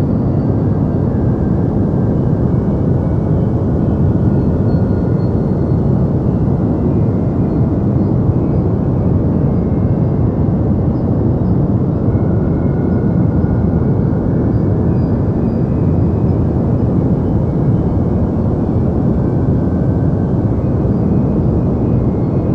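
Deep white noise: a steady, unbroken hiss weighted heavily toward the low end, with little treble, holding the same level throughout.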